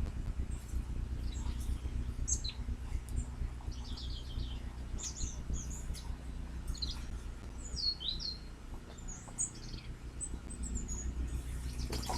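Small birds chirping: many short, high chirps and quick trills scattered throughout, over a steady low rumble.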